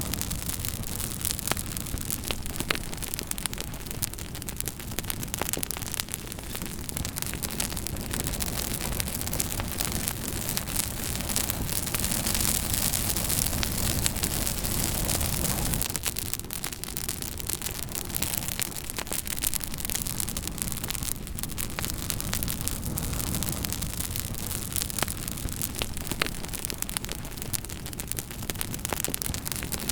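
Campfire crackling, with frequent sharp pops and snaps over a steady rushing noise. A low rushing wash swells and then drops away suddenly about sixteen seconds in.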